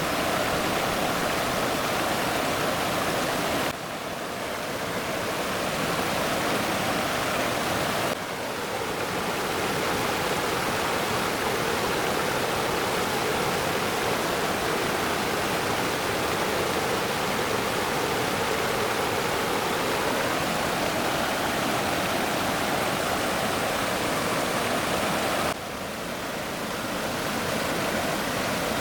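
Stream water rushing steadily, with brief sudden drops in level about 4, 8 and 26 seconds in.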